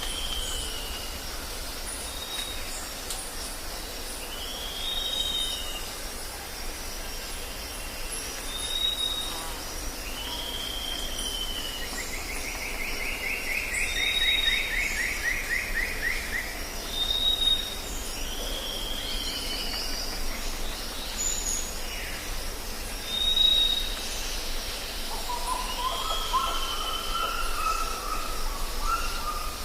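Jungle ambience: several birds calling over a steady hiss. A short high whistle and a falling call repeat every few seconds, a rapid trill runs for about four seconds near the middle, and a lower, wavering call comes in near the end.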